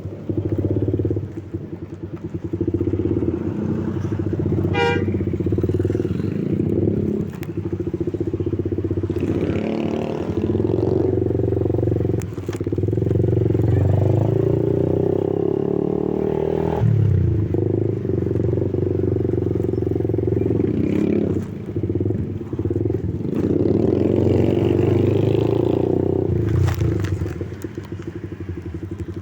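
Motor vehicle engines running close by, the traffic noise swelling and easing as vehicles pass. About five seconds in there is a short, high pitched tone.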